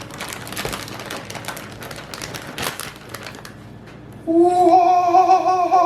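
Bare hands squishing raw ground chicken and grated cheese in a bowl, a run of small wet clicks and squelches. About four seconds in, a loud, long, drawn-out vocal exclamation from the man mixing cuts in over it.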